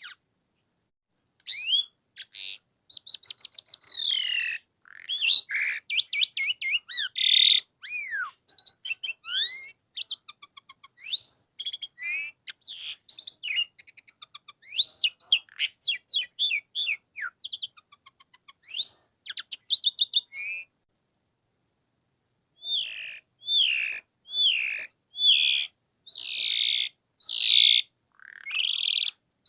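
Asian pied starling (jalak suren) in full song: a fast, unbroken jumble of whistles, slurred notes and chattering rattles. After a short pause near two-thirds of the way through, it gives a series of separate whistled notes about a second apart.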